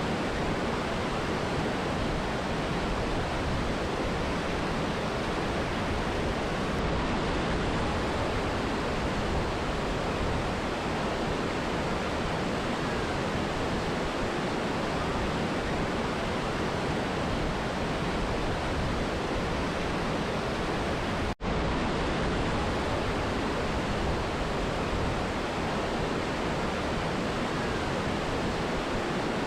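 Steady rushing of a mountain river and waterfall, an even wash of water noise. It cuts out for an instant about two-thirds of the way through, then carries on unchanged.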